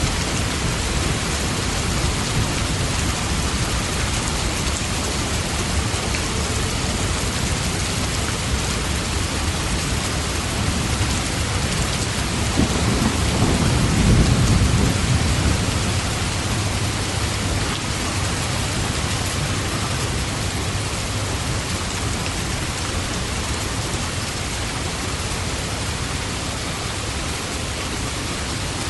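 Steady rain, a continuous even hiss, with a low rumble of thunder swelling and fading about halfway through.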